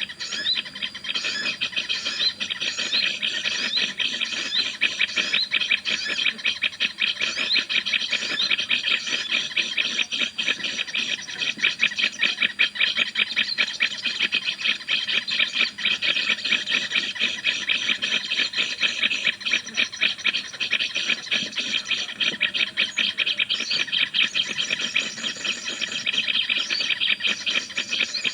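Bird chattering: a rapid, unbroken run of scratchy chirps, several a second, as used to lure birds when trapping.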